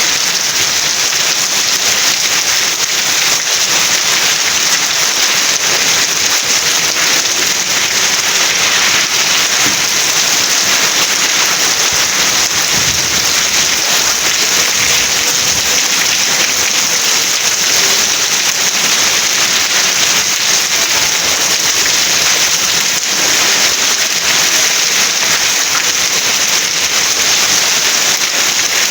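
Steady rain falling: an even hiss with a dense patter of drops.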